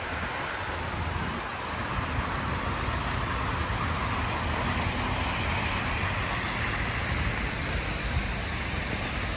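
Steady city street traffic noise: the continuous rumble and hiss of cars driving past.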